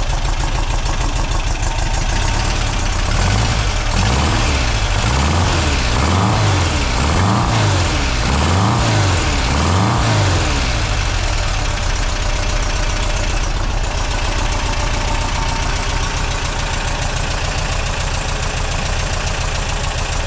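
2-litre VW Type 4 air-cooled flat-four running on a test stand through a new stainless single-pipe merge exhaust, its first run after a refresh. Idling, then the throttle is blipped by hand at the carburettor linkage about five times in quick succession, each rev a little over a second apart, before it settles back to a steady idle. The exhaust note is fairly subdued, in keeping with a single pipe that is called very, very quiet.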